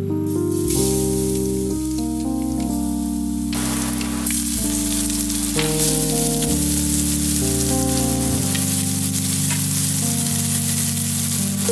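Minced garlic and shallots sizzling and crackling in hot oil in a wok. The sizzle starts faint and grows much louder about three and a half seconds in. Soft background music with held notes plays throughout.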